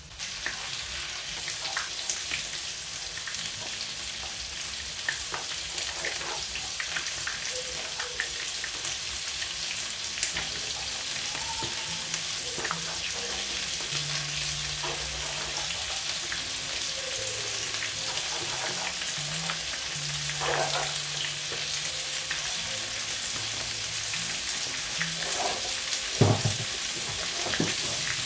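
Battered chicken pieces deep-frying in hot oil in a frying pan: a steady sizzling hiss, with scattered light clicks and one louder knock near the end.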